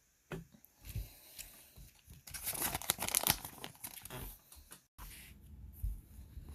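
Small plastic packaging being torn open and crinkled by hand, with a few light clicks and then a dense burst of tearing and rustling lasting about two seconds.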